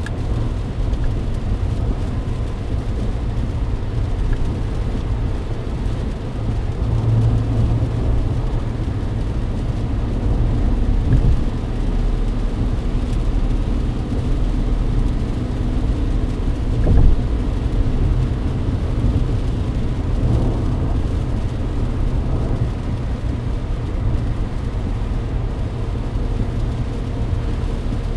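Steady low road rumble and tyre noise inside a Mercedes-Benz W124's cabin at highway speed on a wet road, with rain hiss over it. One brief louder bump comes about two-thirds of the way through.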